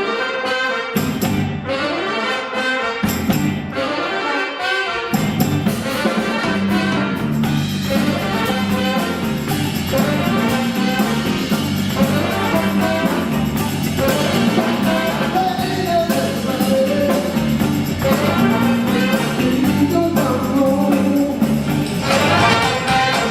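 A band with a horn section playing a song: a few seconds of drum and percussion hits, then the full band with brass and vocals comes in about five seconds in.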